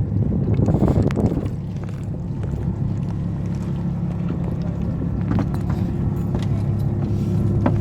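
A boat's engine running steadily with an even low hum, with a few light clicks and knocks over it.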